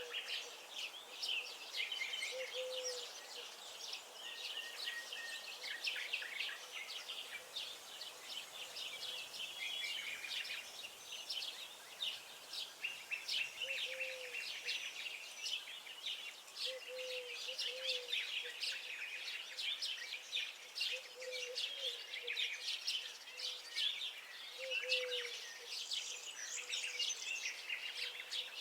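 A chorus of songbirds singing and chirping together, dense overlapping high twitters throughout, with a short low call repeating now and then.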